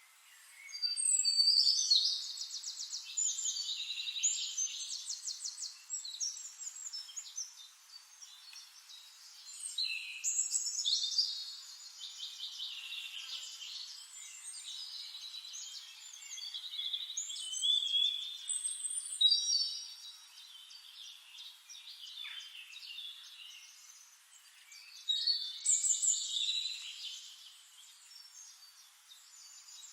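Songbirds singing in bursts of fast, trilling phrases with short pauses between them.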